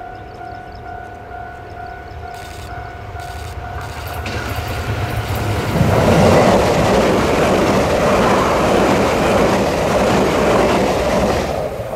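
Level-crossing warning signal sounding a steady tone during the first few seconds. Then a Tze-Chiang express train approaches and passes the crossing, a loud rush of wheel and rail noise for about six seconds that drops away near the end.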